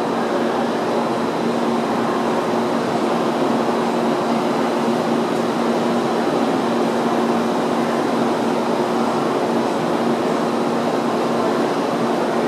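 Steady hum and whir of a Shinkansen train standing at the platform with its equipment running, two low steady tones under an even noise, unchanging throughout.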